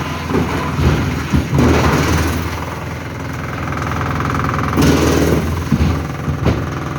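Forestry wood chipper running steadily on its engine, with several sharp cracks and surges as log wood is fed and split.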